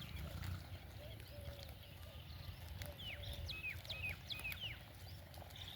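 Small birds chirping, a quick series of short, sharp calls in the middle, over a steady low rumble.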